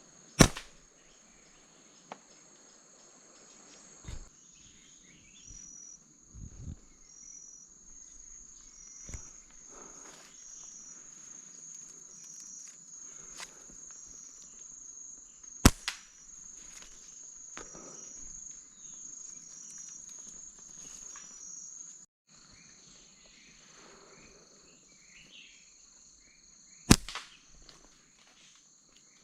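Three sharp snaps of a slingshot being shot, one near the start, one about midway and one near the end, over a steady high drone of insects with a short high note repeating about once a second.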